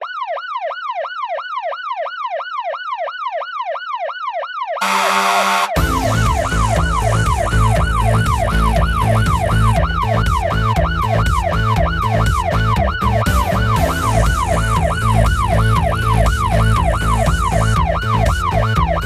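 Emergency vehicle siren sounding a fast wail that sweeps down in pitch about three times a second. About five seconds in, a short noisy burst comes, and then background music with a steady bass beat plays under the siren.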